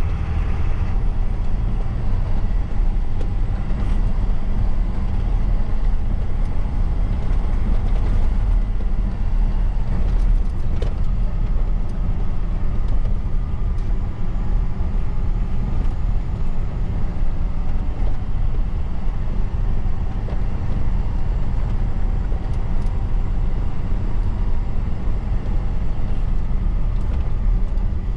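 Truck engine running steadily while driving, with road noise; the sound is even throughout and strongest in its low end.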